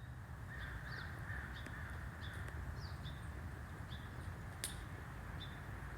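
A bird calling over and over in short, high notes about once or twice a second, over a steady low rumble, with one sharp crackle about four and a half seconds in.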